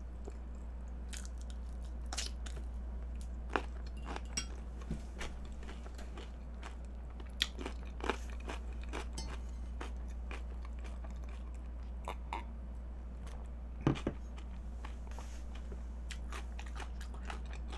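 A person chewing a mouthful of kimchi: scattered crunches and wet mouth clicks, a few sharper ones standing out, over a steady low hum.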